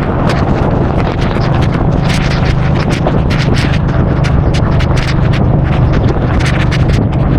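Suzuki Boulevard C50's V-twin engine running steadily under way, with wind rushing over the microphone and frequent sharp crackles on top.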